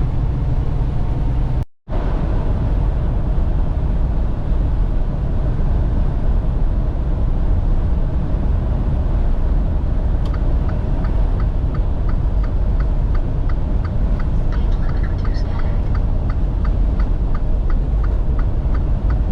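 Semi truck cab noise while driving: a steady low engine and road rumble. About halfway through, a regular ticking starts, about two ticks a second.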